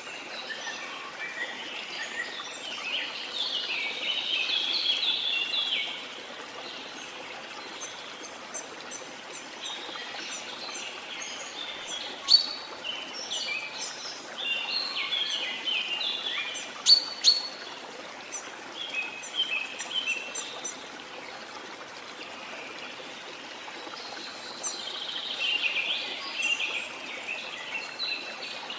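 Birds chirping and trilling in three bouts with short lulls between them, with a few sharp single chirps, over the steady sound of flowing waterfall water.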